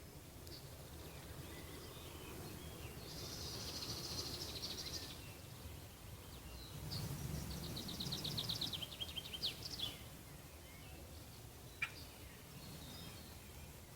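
Songbirds singing, with two fast trilled phrases made of rapid repeated notes, the second falling in pitch, and scattered short chirps, over a steady low rumble. A single sharp click near the end.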